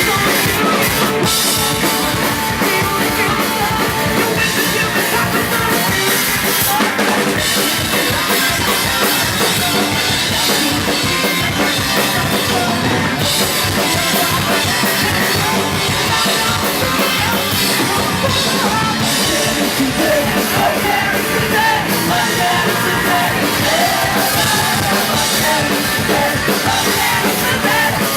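A punk rock band playing live and loud, with a pounding drum kit and singing.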